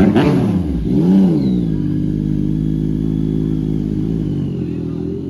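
Sport motorcycle engine revved in two quick blips, the second about a second in, then running at a steady speed.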